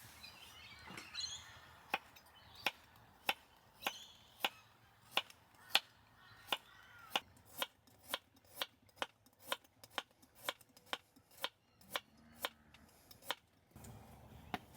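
Knife chopping on a cutting board, a steady run of sharp taps at roughly two a second that stops near the end.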